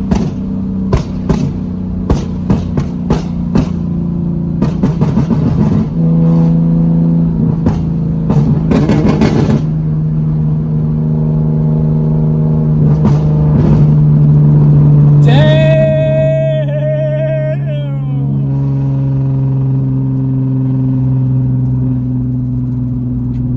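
Nissan 370Z's 3.7 L V6 running through a straight-piped single exit with no muffler and no catalytic converters: a loud steady drone under way, stepping to new pitches a few times as the revs change. Through the first half there is a run of sharp pops, and around the middle a brief higher wavering tone.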